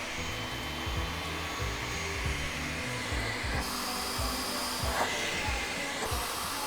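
AIRBOT CV100 cordless stick vacuum cleaner switched on and running steadily at its suction power, a motor whine over rushing air. Its tone shifts about halfway through and again near the end.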